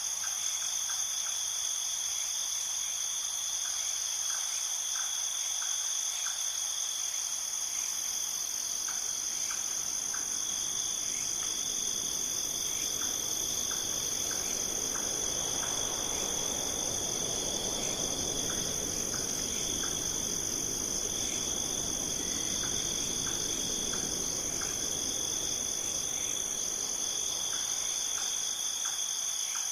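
A steady chorus of insects such as crickets trilling without a break at two high pitches, with short chirps repeating irregularly. A soft rushing sound swells up around the middle and fades again.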